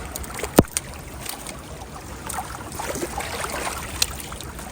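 Rainwater gurgling and trickling into a roadside culvert, with one sharp knock about half a second in and a smaller click about four seconds in.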